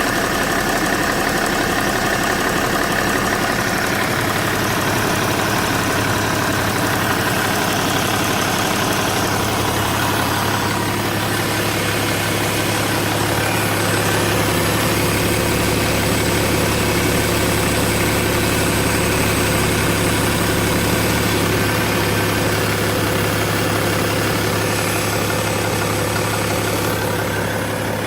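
BMW 525d's straight-six diesel engine idling steadily.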